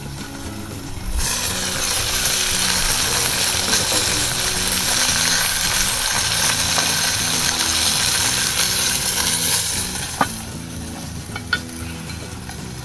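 Roast chicken sizzling in a 10-inch cast-iron Dutch oven over a wood fire, the hiss jumping much louder about a second in and easing back near the end, followed by a single sharp click.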